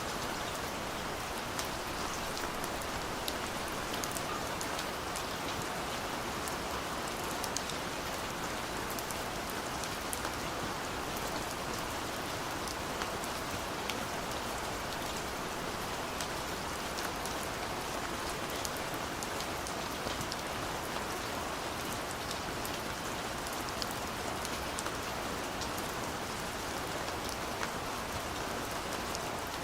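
Steady light rain falling, an even hiss with scattered individual drop ticks.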